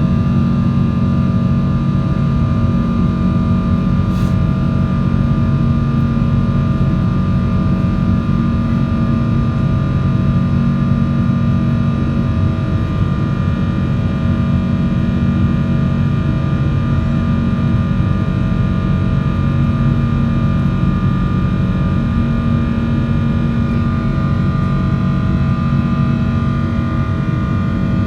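Airliner jet engines and rushing air heard from inside the cabin during the climb after takeoff: a steady, loud drone with several steady engine tones held throughout.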